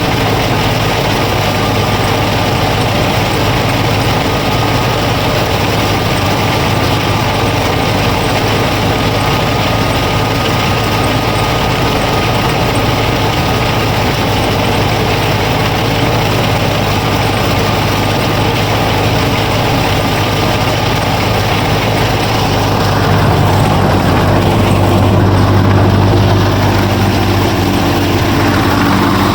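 A motor running steadily with a deep, even hum, typical of a working harvesting machine. For a few seconds near the end the hum grows heavier and slightly louder.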